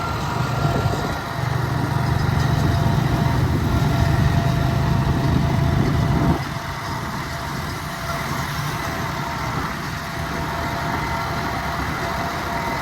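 Ford 4000 tractor engine running hard, pulling a loaded trolley; it drops suddenly to a quieter, steady run about six seconds in.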